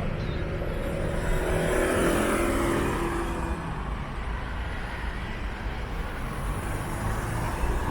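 Road traffic: a motor vehicle's engine passes close by in the first few seconds, then fades into steady traffic noise.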